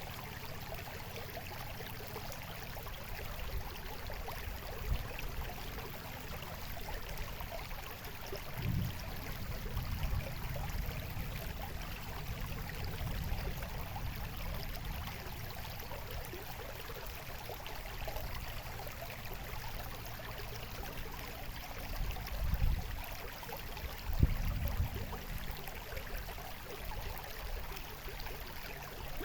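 Babbling, trickling water of a stream flowing steadily, with a few brief low thumps in the middle and again near the end.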